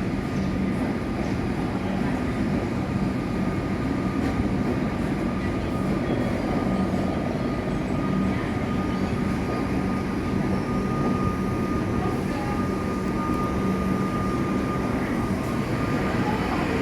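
Melbourne suburban electric train at a station platform: a steady rumble with a constant thin whine running through it.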